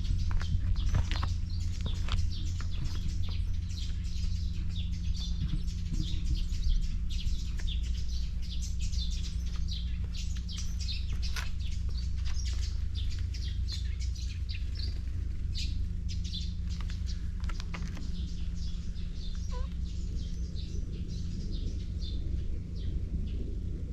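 Small birds chirping in rapid, repeated short calls, over a steady low rumble.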